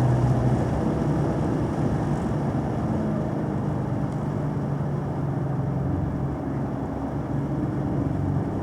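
Car engine running steadily at an easy cruise, with road noise.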